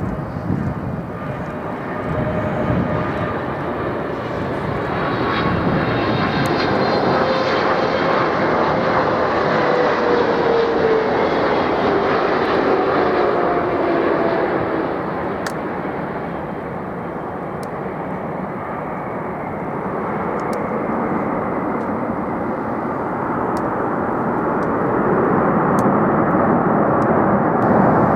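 Jet airliner passing close by, a steady engine roar with a whine that falls in pitch as it goes past; the roar swells again near the end.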